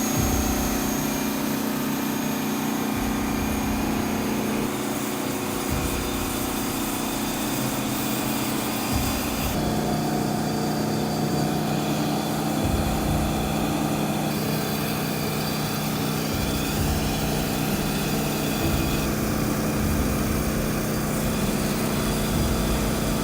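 Detroit Diesel V16 two-stroke diesel engine running steadily, a continuous deep multi-tone drone with a slight change in pitch about ten seconds in.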